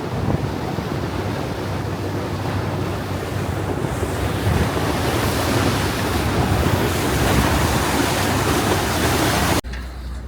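Wind blowing on the microphone aboard a moving tour boat, mixed with the rush of water, as a steady loud noise. It cuts off abruptly near the end, leaving a quieter low hum.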